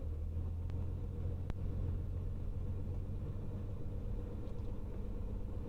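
Cirrus SR22T's turbocharged six-cylinder engine running at low power with a steady low drone, heard from inside the cabin during the landing rollout. There are a couple of faint clicks, one at the very start and one about a second and a half in.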